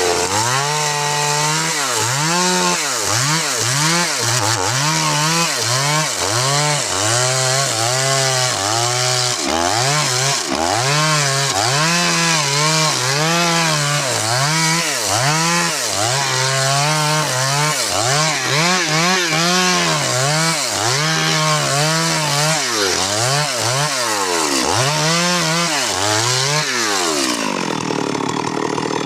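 Stihl MS 382 two-stroke chainsaw cutting wood, its engine pitch rising and falling over and over, about once a second, as it revs and takes load. Near the end the revs fall away and it runs on lower and steadier.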